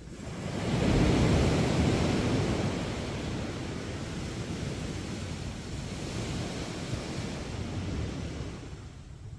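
Sea waves breaking on the beach: a wave crashes about a second in, then the surf washes on as a steady hiss that eases off near the end.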